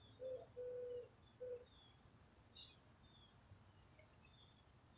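A dove cooing: a few low hooting notes in the first second and a half, one of them drawn out. Faint, short, high chirps of small birds are scattered throughout.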